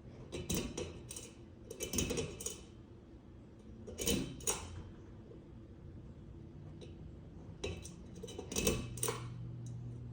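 Kichler Canfield ceiling fan with a steady low motor hum, broken by several clusters of sharp clicks and rattles. After the last clicks near the end, the hum becomes louder.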